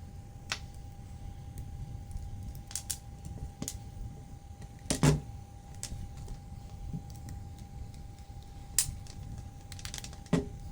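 Scattered small clicks and knocks as a Dremel 4000 rotary tool's parts are handled during disassembly. The loudest knock comes about five seconds in, with two more near the end, over a faint steady hum.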